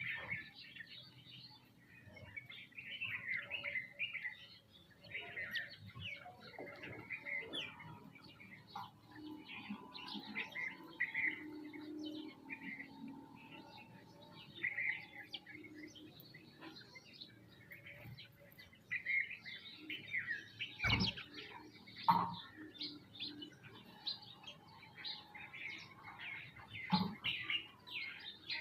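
A flock of sparrows and other small birds chirping and calling over one another without pause. A few sharp knocks come about two-thirds of the way through and again near the end.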